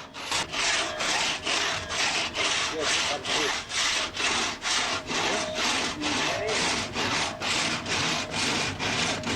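Hand crosscut saw cutting through timber in a fast, even rhythm of about three strokes a second, each stroke a rasping hiss of the teeth through the wood.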